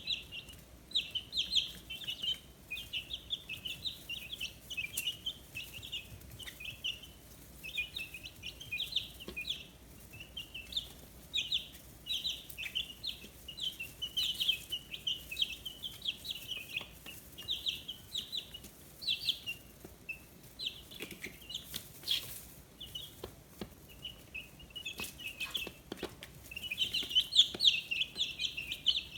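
A group of two-week-old chicks peeping continuously, a dense chatter of short high chirps. The chirping thins out for a few seconds past the middle, when a few light knocks are heard, then grows thicker and louder again near the end.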